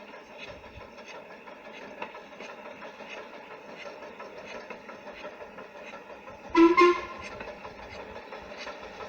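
A train running, a steady noise with soft regular beats about twice a second, then a short double blast on the train's whistle about two-thirds of the way through.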